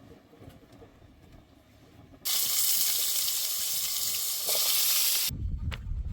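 A loud, steady hiss that starts abruptly a little over two seconds in, lasts about three seconds and then cuts off.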